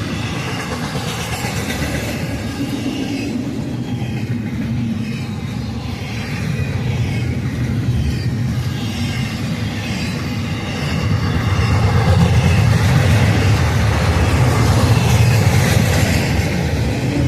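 Freight cars of a passing Union Pacific train rolling by, a steady wheel-on-rail rumble and clatter that grows louder about two-thirds of the way through.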